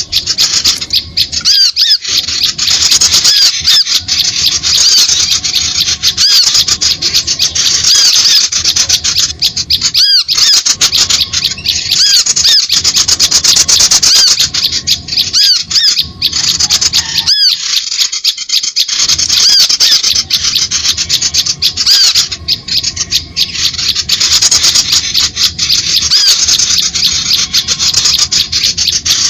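Bird-lure recording of small birds: dense, rapid, high-pitched chattering and squeaking calls, briefly breaking off twice, played to draw birds in to birdlime.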